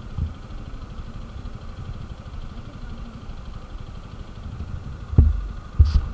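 TVS Apache RTR 160 4V's single-cylinder engine idling steadily with a low, fast throb, with a brief louder thump a little after five seconds in.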